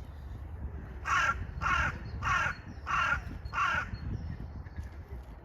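A bird gives five loud, harsh calls in a steady series, about 0.6 s apart, each one falling at its end.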